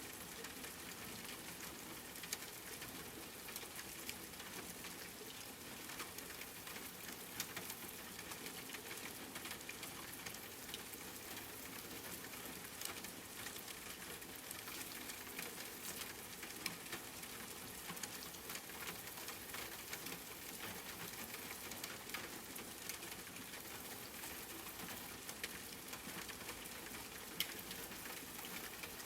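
Steady rain falling on a surface, a continuous patter with many individual drops ticking through it.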